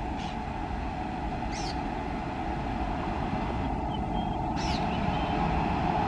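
WAP-7 electric locomotive and its train approaching with a steady hum and rumble that slowly grows louder. Two short bird chirps come through, about one and a half seconds in and near the end.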